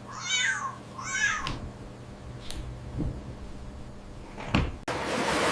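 A kitten meowing twice, two short high-pitched calls in quick succession, followed by a few soft knocks. Near the end a loud rushing noise starts abruptly.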